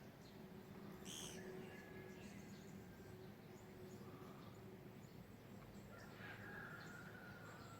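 Faint bird calls over quiet background ambience: a short high chirp about a second in, then thin, held whistled notes.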